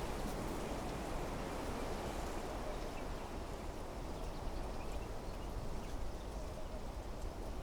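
Wind blowing through trees: a steady rushing, with faint short high chirps scattered through it.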